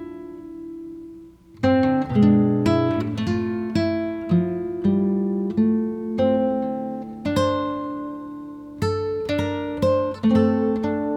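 Background music played on acoustic guitar: plucked notes and strummed chords that ring and fade, with a brief pause about a second and a half in.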